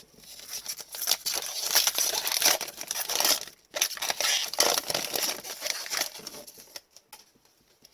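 Plastic wrapper of an Upper Deck hockey card pack crinkling as it is torn open and crumpled, in two long bouts of rustling.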